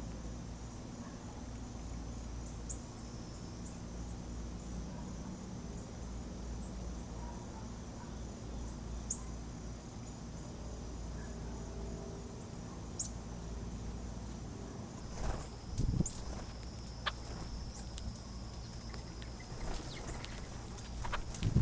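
Steady evening chorus of crickets and other insects, with a few short high bird chips. About two-thirds of the way in, a run of rustling and scratching clicks sets in, from small animals moving about at the feeding spot.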